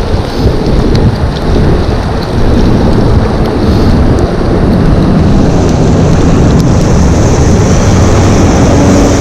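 Loud wind rush buffeting the microphone, with rain, while riding an electric bike in wet weather. A higher hiss joins about halfway through.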